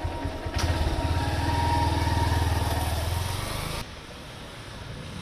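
Motorcycle engine running with a low, rapid pulsing beat, growing louder over the first few seconds. It cuts off abruptly a little before the end, leaving a quieter steady hum.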